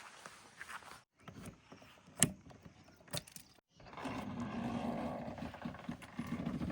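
Heavy diesel engine of earth-moving machinery running steadily from about four seconds in, after a quieter stretch broken by two sharp knocks.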